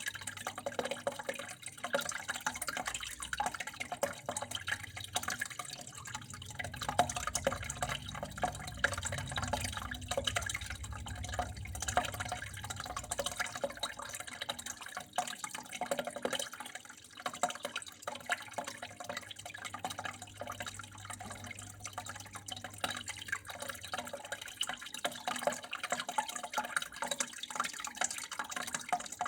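Water flowing and splashing steadily, a dense patter of small drips and trickles.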